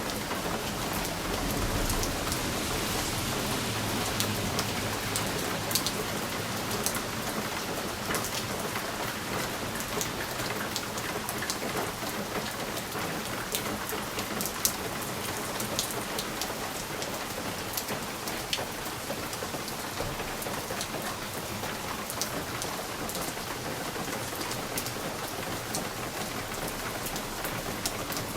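Steady rain on a window pane: a continuous hiss with many individual drops tapping sharply against the glass. A low rumble sits under it in the first few seconds.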